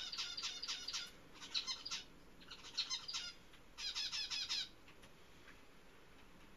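A small bird chirping in four quick runs of short, high notes, falling quiet about two-thirds of the way through.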